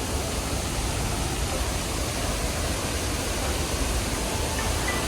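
Steady rushing of a waterfall in full flow after heavy rain, an even roar of falling water with a deep low rumble.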